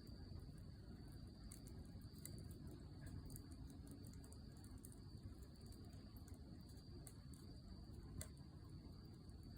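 Faint wood campfire burning with scattered soft crackles and one sharper pop about eight seconds in, over a steady high-pitched insect trill.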